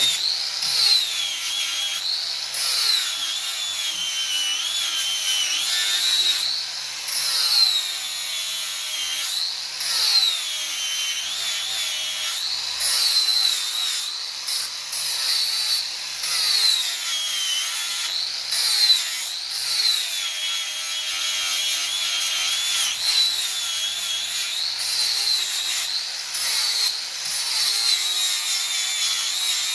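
Angle grinder disc grinding steel: a steady high whine and gritty hiss, the motor's pitch dipping each time the disc is pressed into the work and recovering as it eases off, over and over every couple of seconds.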